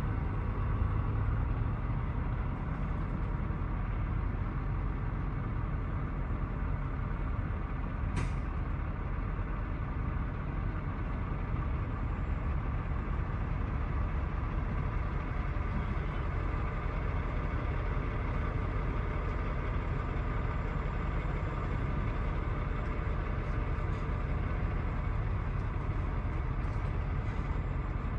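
Steady low rumble of idling semi-truck diesel engines, with a single short click about eight seconds in.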